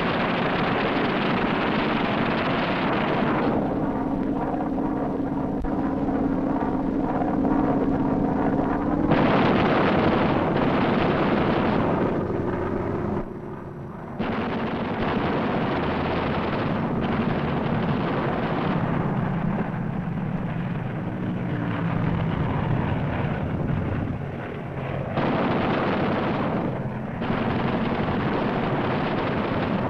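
Aircraft engines running in a steady roar, mixed with gunfire. A steady engine note stands out between about 4 and 9 seconds in, and the roar drops briefly about halfway through.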